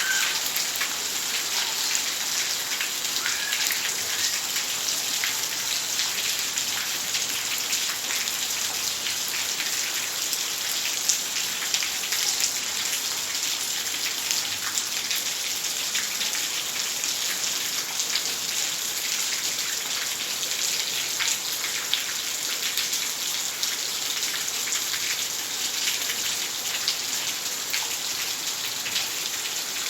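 Heavy rain falling steadily, a dense even hiss of rain dotted with many distinct drop hits.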